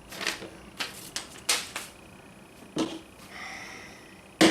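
Shipping box being shifted and handled: a handful of short, irregular knocks and scrapes, the loudest near the end.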